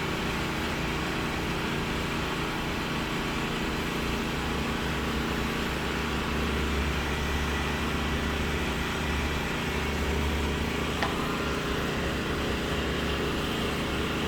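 Steady mechanical drone of a running motor or engine, with several low hum tones and a deeper rumble that swells in the middle, and a single click about eleven seconds in.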